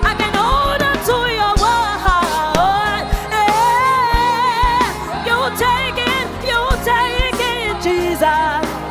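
A gospel singer's wordless melismatic runs with wide vibrato over a live band, with bass and drum hits underneath.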